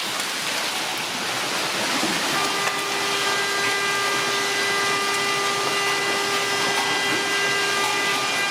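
Heavy rain pouring down. About two seconds in, a car horn starts sounding and holds one steady note over the rain.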